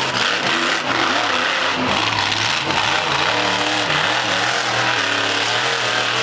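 Monster truck engine revving hard during a freestyle run, its pitch rising and falling again and again as the throttle is worked.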